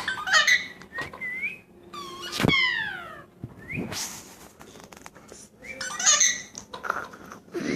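Pet parrot calling: a string of short whistles and squawks that glide up and down in pitch, with one loud, drawn-out falling call about two and a half seconds in.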